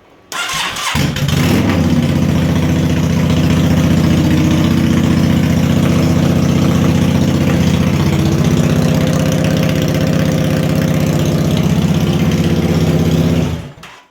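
2009 Yamaha V-Star Classic 650's V-twin engine with a straight-piped exhaust and no baffles, cranked on the starter with the choke on. It catches about a second in and idles steadily, quite loud, then shuts off just before the end.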